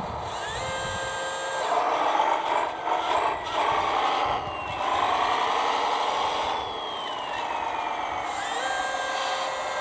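Electric drive motor and geared driveline of a radio-controlled scale Hayes HD truck whining under load, its pitch rising and falling as the speed changes. A short, steady higher whine comes in about half a second in and again near the end.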